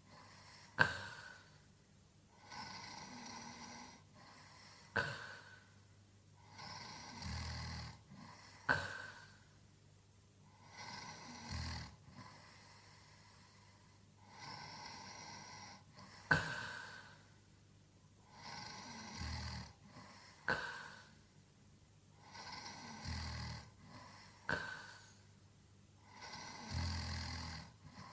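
A sleeping man snoring at a slow, even pace of about one breath every four seconds. Each breath has a low snore followed by a short, sharp puff.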